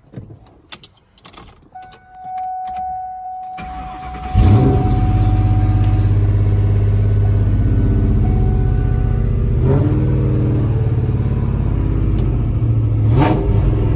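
A 2004 Ford Mustang with an SLP Loudmouth cat-back exhaust being started: a few light clicks and a steady tone, then the starter cranks briefly about three and a half seconds in. The engine catches loudly and settles into a steady idle through the exhaust.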